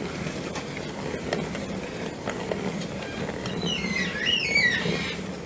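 IKEA Tokig salad spinner being spun by its lid mechanism, its basket of cloth pads whirring and churning through soapy water with a steady rumble and light ticking. A brief high wavering squeak about four seconds in.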